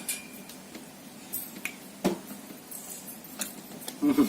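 Light clicks and taps of plates and hands at a meal, with one louder knock about two seconds in; a voice starts near the end.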